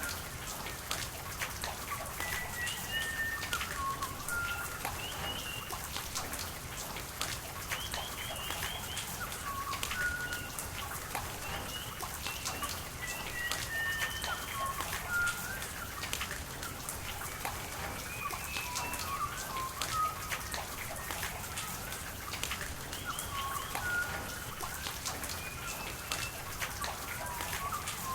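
Steady rain falling, with sharp drops ticking on nearby surfaces, and several birds chirping short whistled notes again and again throughout.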